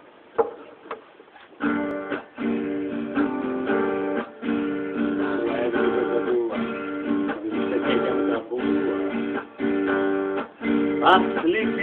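Acoustic guitar: two single plucked notes, then strummed chords begin about a second and a half in and run on as a song's introduction, with short breaks at the chord changes.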